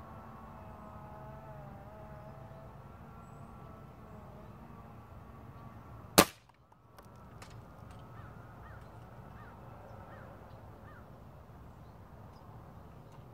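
A .22 Umarex Gauntlet PCP air rifle fires one sharp shot about six seconds in, followed by a faint tick or two. Birds call in the background over a steady wind haze.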